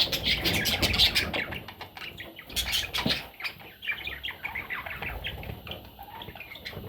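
Budgerigar chattering in rapid short chirps and squawks, busiest in the first half and thinning out after.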